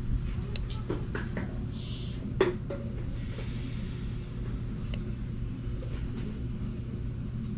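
Scattered light knocks and clinks of tools and parts being handled, the loudest about two and a half seconds in, over a steady low hum.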